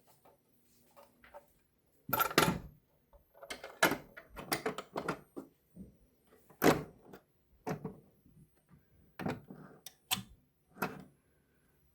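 Irregular clicks and knocks of objects being handled, about a dozen in all: a first loud clatter about two seconds in, a quick run of clicks in the middle, then single knocks every second or so.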